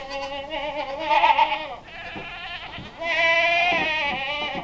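Kiko goats bleating: several long, wavering bleats one after another, the loudest and longest starting about three seconds in.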